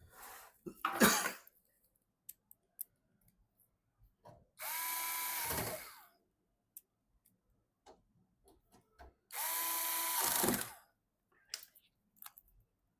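Electric screwdriver run twice for about a second and a half each, the motor spinning up to a steady whine and stopping, a few seconds apart. A sharp clack about a second in, with small handling clicks between the runs.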